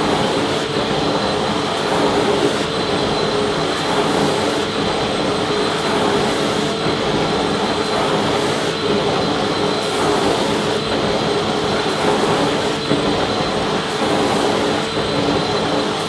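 Vacuum cleaner running steadily, a constant rushing noise with a steady whine through it.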